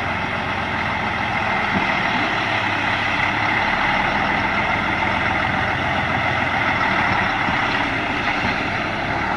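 Heavy truck engine running steadily at low speed, with a continuous rumbling, noisy drone.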